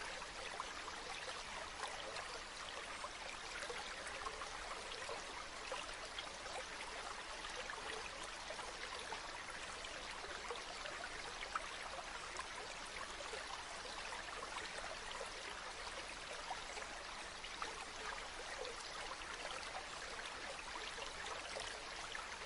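A river flowing: a steady, even rush of water with a fine crackle of small splashes through it.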